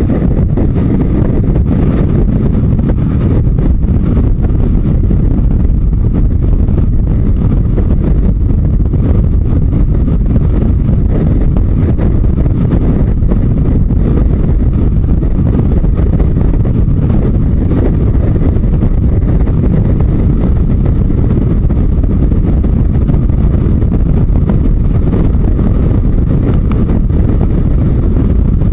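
Yamaha Diversion 900's inline-four engine running steadily while the motorcycle is ridden at road speed, under a heavy, steady rumble of wind on the microphone.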